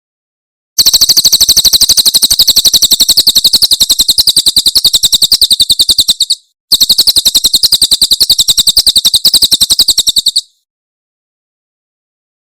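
Crested jay (cililin) giving its rapid, high-pitched rattling 'tembakan' call: two long bursts of about ten notes a second, with a short break about six seconds in.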